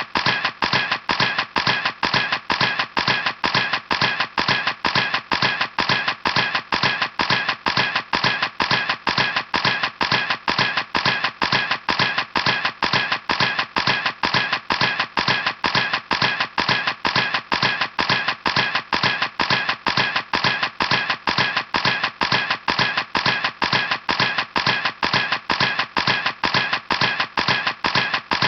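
Camera shutter clicking over and over, one identical click about twice a second at an even pace.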